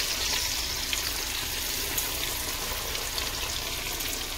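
Breaded chicken tenders deep-frying in a skillet of hot oil, just lowered in: a steady, vigorous sizzle with a few small pops.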